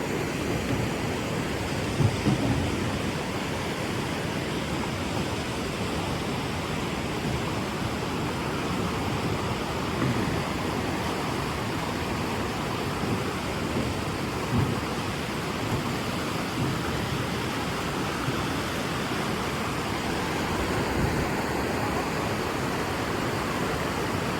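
Steady rushing water of river rapids, with a few brief low knocks.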